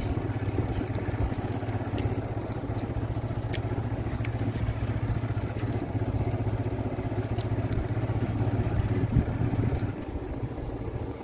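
An engine running steadily, a low even hum with a few faint clicks, easing off about ten seconds in.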